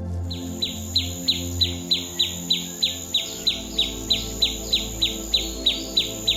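A short chirping call repeated at an even pace, about three a second, each chirp a quick downward sweep; it starts about half a second in. Soft background music underneath.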